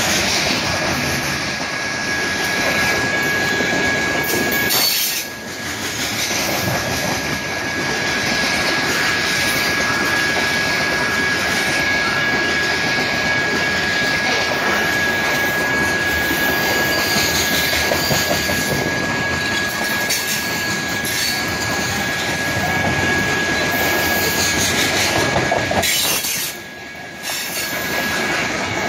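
Loaded freight train of covered hopper cars rolling past close by, its steel wheels running steadily on the rails, with a continuous high wheel squeal over the noise. The sound briefly dips twice, about five seconds in and near the end.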